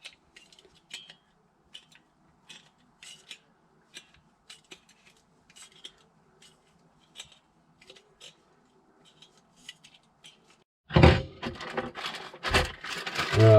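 Light metallic clicks and clinks of small metal parts being handled, then a louder run of rattling and knocking about eleven seconds in.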